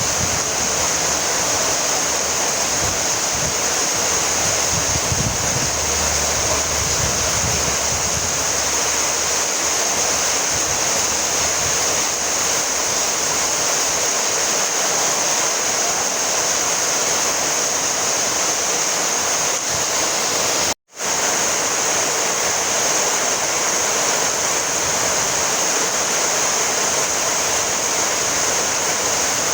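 Steady rainfall, an even dense hiss; it cuts out completely for a split second about twenty seconds in.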